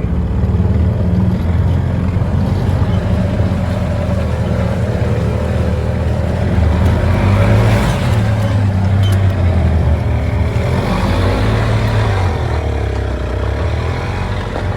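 A motor vehicle's engine running loud and steady, its pitch rising and falling a few times in the middle.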